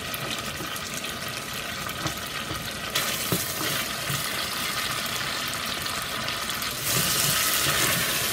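Smoked fish and caterpillars frying in oil with onions and tomatoes in a steel pot, stirred with a spoon: a steady sizzling hiss that grows louder about three seconds in and again near the end.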